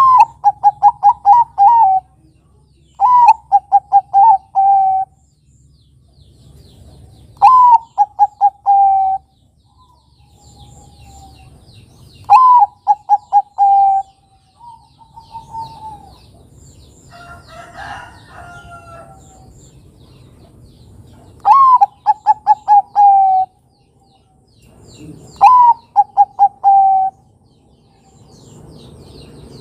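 Zebra dove (perkutut, Bangkok type) cooing. There are six phrases, each a first note followed by a quick run of short coos about two seconds long, with several seconds between phrases. Faint chirps of smaller birds sound in between.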